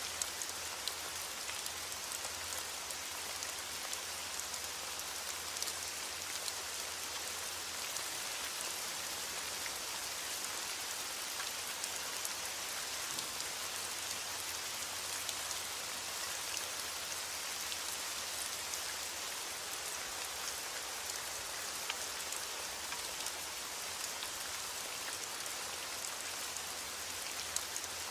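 Heavy rain beating on window glass: a steady, even hiss with many scattered sharp ticks of drops, and a faint low rumble underneath.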